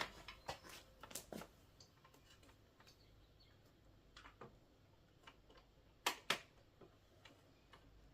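Scattered light clicks and taps of small tools and metal parts being handled during a motor repair, with two sharper clicks in quick succession about six seconds in.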